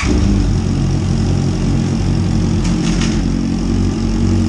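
Honda CB650F's inline-four engine idling steadily through an Akrapovic aftermarket muffler.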